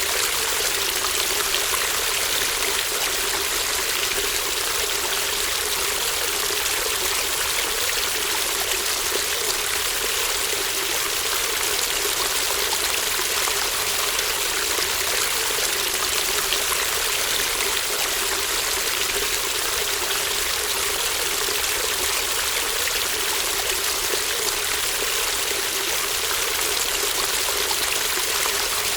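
A shallow brook babbling steadily, water running and trickling over stones with no break or change.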